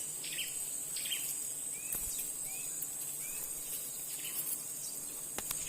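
Steady high-pitched drone of insects such as crickets, with a small bird giving a series of short rising chirps, about five, spaced roughly half a second apart, a couple of seconds in.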